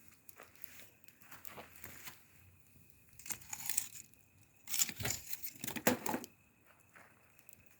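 Irregular dry rustling and crunching, like something brittle being handled or crushed, louder and denser about five to six seconds in.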